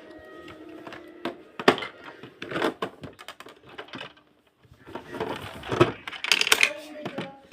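Hard plastic toy pieces being handled and pressed into place: a run of irregular clicks, taps and clatters, busiest around the middle and again near the end.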